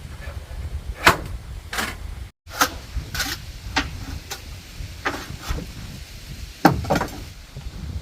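Irregular knocks and thuds, about ten spread unevenly, the loudest about a second in and near the end, over a low rumble. The sound cuts out for a moment a little over two seconds in.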